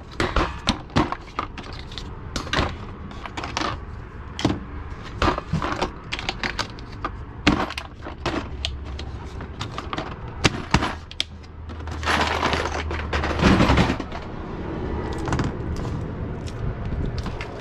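Small fuses and parts being handled: repeated sharp clicks and clatter of small hard pieces knocking together, with a denser rattle about twelve seconds in.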